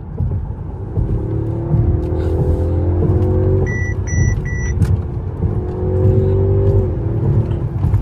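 Mercedes-Benz S580's twin-turbo V8 revving up hard under full acceleration after a downshift, heard from inside the cabin, its pitch rising in two pulls. Three short electronic beeps sound about four seconds in.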